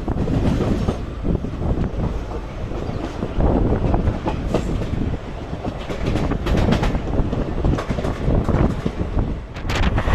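Express train running along the line, its coach wheels rumbling and clattering over the rail joints, with runs of sharp clicks in the second half.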